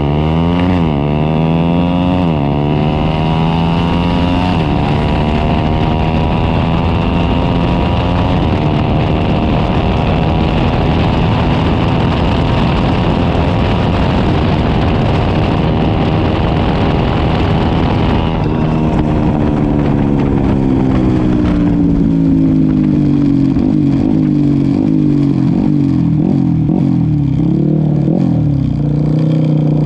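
Racing motorcycle engine accelerating hard through several quick upshifts, then held at high revs for a long stretch. About 18 seconds in the engine note falls away as it slows, settling to a lower steady run near the end.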